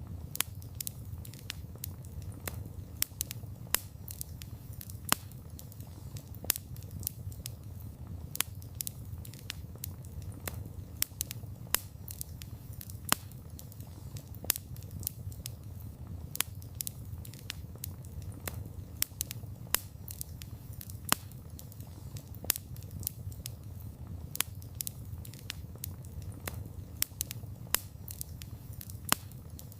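Wood campfire burning: a steady low rumble of flames with frequent sharp, irregular crackles and pops from the burning wood, a few of them much louder than the rest.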